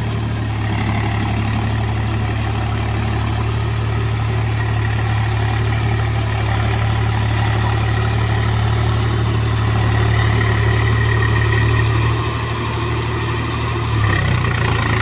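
Swaraj 735 FE tractor's three-cylinder diesel engine running steadily. There is a brief dip in level about twelve seconds in, and the engine note shifts about a second before the end.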